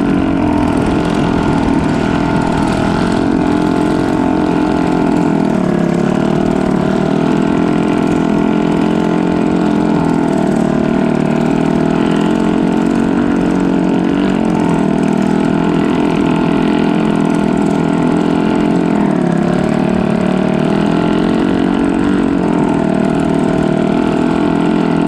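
A boat's engine running steadily, its pitch rising and falling a little now and then.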